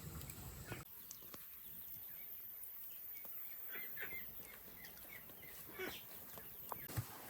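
Faint, quiet outdoor sound with scattered short animal chirps, and a few soft clicks and a knock near the end.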